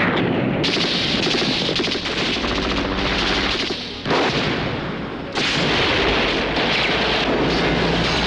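Rapid automatic gunfire in a film soundtrack, long fast bursts with a short lull about four seconds in.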